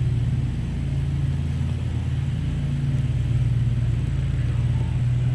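Honeybees humming around an open hive during a frame inspection: a steady, low, droning buzz of many wings.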